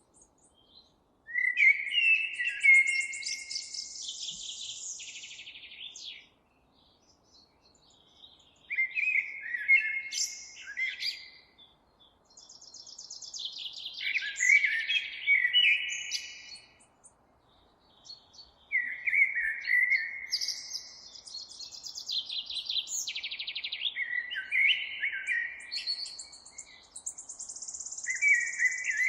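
A songbird singing in repeated bouts of a few seconds each, separated by short pauses. Each bout is a run of quick chirps and high trills.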